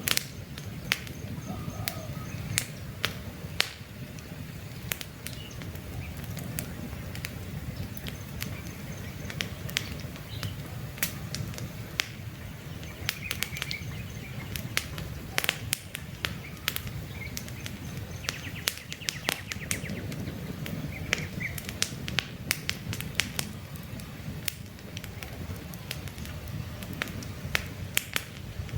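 Wood campfire crackling with frequent sharp pops and snaps over a steady low rumble of the flames. Faint bird chirps come through now and then.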